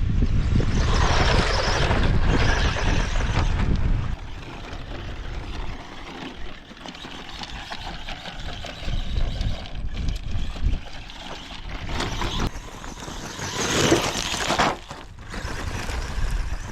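A 1/12-scale RC short course truck being driven outdoors: surges of motor and tyre noise, loudest about a second in and again near the end. Heavy wind rumble on the microphone for the first four seconds.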